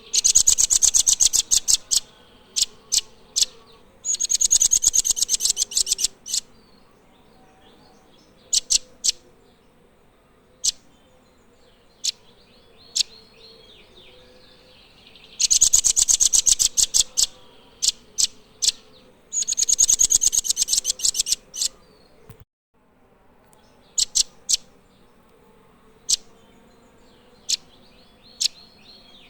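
Blue nuthatch calling: rapid trills of fast-repeated high notes, each burst about two seconds long, coming in pairs, with single sharp high notes in between.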